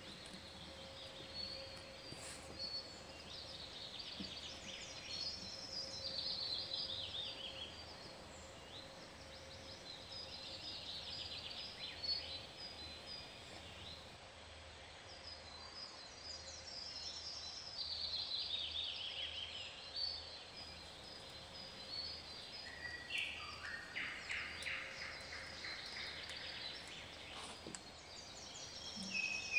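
Songbirds singing outdoors: trilled phrases repeated every few seconds, each falling in pitch over about two seconds, over a faint steady background.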